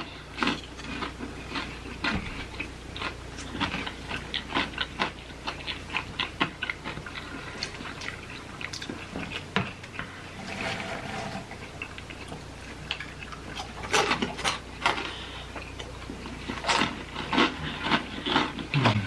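Close-miked chewing and crunching of crisp fried snacks, an irregular run of sharp crunches with a couple of denser flurries in the second half.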